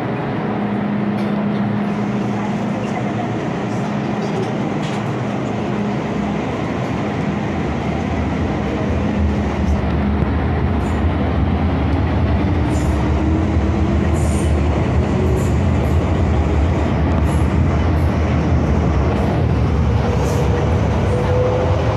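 MTR M-Train electric multiple unit running on the Kwun Tong Line, a steady rumble of wheels on rail. After about nine seconds the rumble grows, and a motor whine rises in pitch as the train picks up speed.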